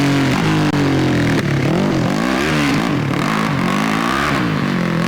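Motorcycle engine running close by, settling over the first second and then revved in several quick blips that rise and fall.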